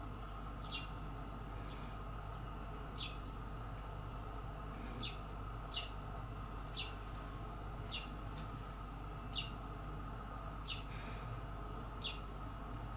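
A bird calling: short, high chirps that fall in pitch, about ten of them at uneven gaps of roughly a second, over a steady low hum.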